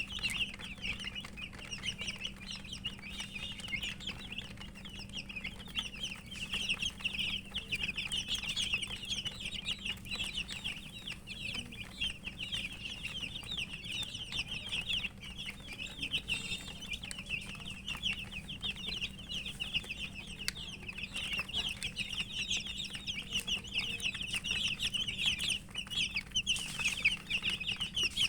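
Domestic chicken chicks chirping without pause, many short high peeps overlapping into a dense chatter, over a faint steady low hum.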